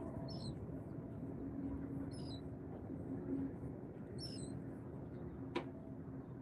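A bird chirping: a short high chirp about every two seconds, over a steady low hum and rumble, with one sharp click near the end.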